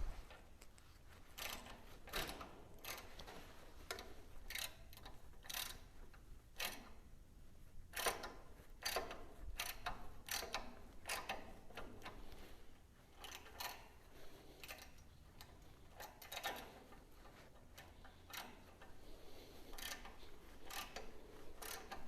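Hand tap cutting 3/8-16 threads into a drilled metal bracket: faint, irregular clicks and creaks as the tap is turned through the hole.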